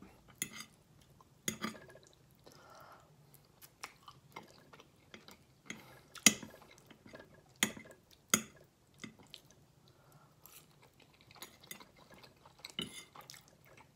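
Chewing of creamy pasta with wet mouth clicks, and a fork clinking and scraping on the plate several times.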